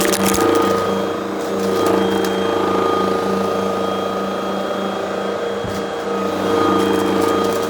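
Vacuum cleaner running with a steady motor hum and whine, with bursts of crackling and clicking as crunchy debris is sucked up, at the start and again near the end.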